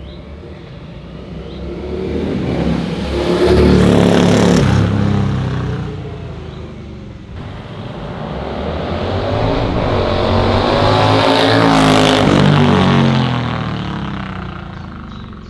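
Indian Scout Bobber's V-twin through a Dr. Jekill & Mr. Hyde valve exhaust, passing by twice: it swells up loud and fades away, then comes past again.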